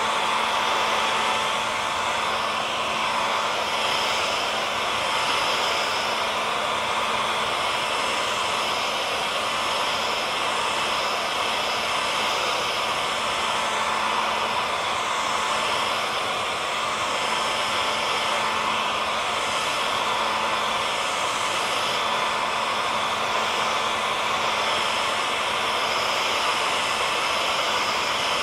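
Electric hair dryer running steadily, a rushing blow of air with a constant motor whine.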